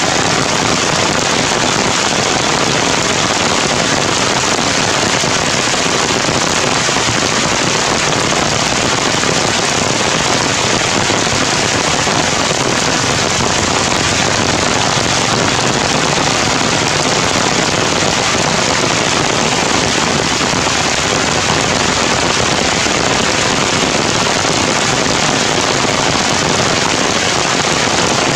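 Heavy rain falling steadily on the forest canopy, a loud even hiss with no break.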